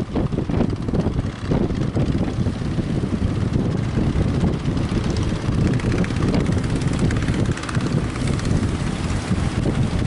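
Strong wind buffeting the microphone: a loud, continuous low rumble that flutters rapidly.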